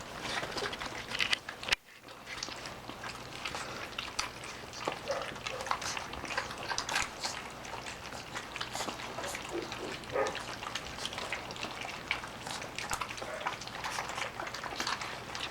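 Standard poodle puppies lapping and slurping soft mush from a shared bowl: a steady, irregular stream of small wet smacks and clicks.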